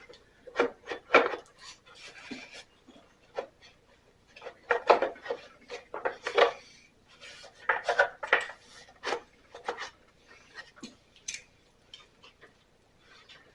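Hand tools and loose metal parts clinking, clattering and scraping in irregular strokes as a mower engine's cover is unbolted and worked loose.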